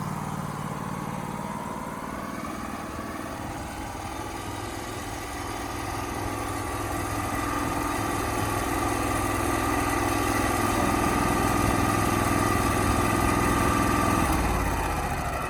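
An engine running steadily, growing louder about halfway through and dropping off near the end.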